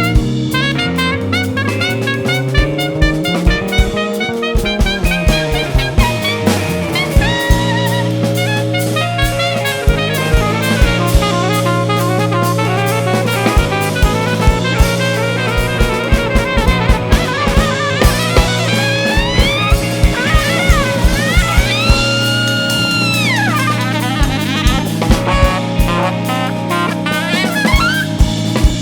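A live jazz-fusion band playing, with a busy drum kit of snare and bass drum under pitched instruments. About two-thirds of the way through, a lead line slides up and down in pitch and then holds a high note.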